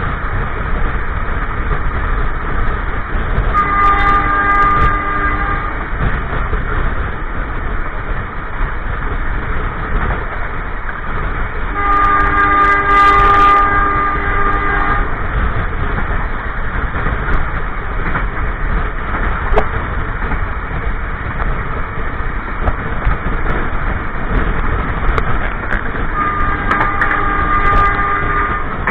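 Passenger train running, a steady rumble of wheels on the track heard from inside a coach, with the diesel locomotive's multi-tone horn sounding three times: a blast of about two seconds a few seconds in, a longer one of about three seconds near the middle, and another about two seconds long near the end.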